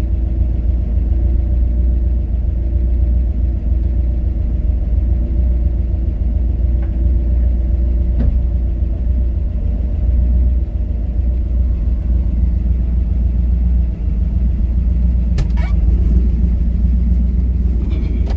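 A 1967 Mercury Cougar's V8, fitted with Holley Sniper EFI, idling steadily at about 850 rpm at operating temperature. A couple of brief knocks sound near the end.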